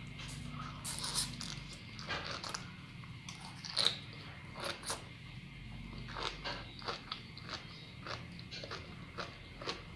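Biting and chewing a mouthful of fresh sea grapes: a run of short, crunchy clicks as the bead-like seaweed is chewed, stronger about a second in and about four seconds in, then about one or two a second.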